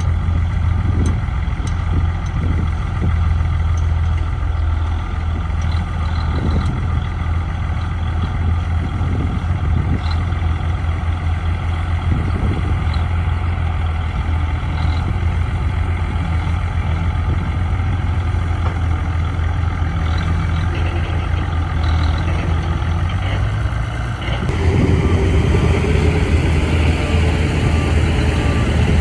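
Heavy diesel engine of earth-moving machinery running with a steady low hum and scattered clanks; about three-quarters of the way through it gets louder and fuller.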